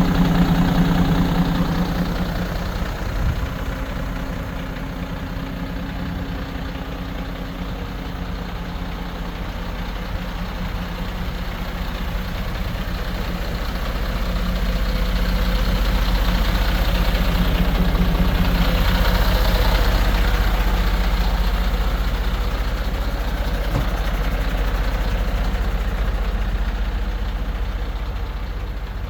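Mercedes-Benz Atego 1324 truck's diesel engine idling steadily, growing louder for a few seconds past the middle before settling again.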